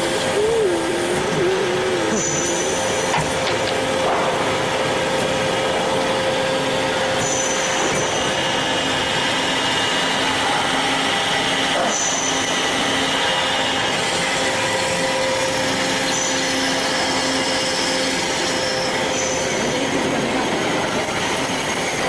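Industrial band saw running steadily, a continuous machine noise with a constant whine.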